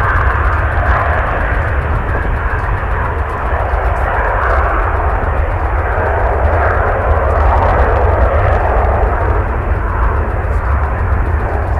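Jet airliner engines running as a plane passes, a steady broad roar, with strong wind buffeting the microphone in a heavy low rumble.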